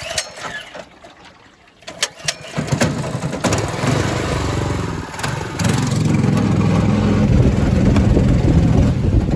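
New mud motor's small gasoline engine running on the boat, with a few knocks in the first two seconds. About two and a half seconds in, the engine revs up, dips briefly, then holds at high throttle, and it cuts out right at the end.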